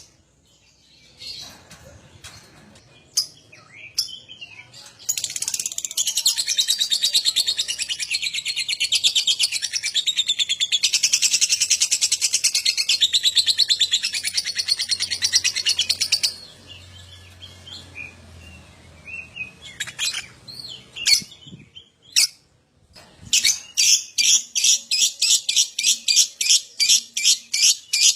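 Lovebird singing its long, rapid chattering 'ngekek' song for about eleven seconds, then scattered short chirps, then an even series of sharp high calls, about three a second, near the end.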